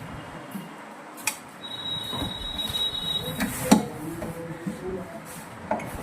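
Metal knocks and clinks of tools on a washing machine's clutch and drum parts, three sharp strikes with the second the loudest, and a thin high-pitched squeal lasting about a second and a half early on.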